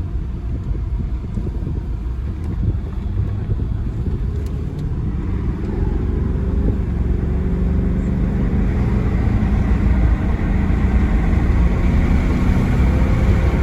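Audi A6 engine and road noise heard from inside the cabin as the car drives off, with the engine note rising as it accelerates from about five seconds in.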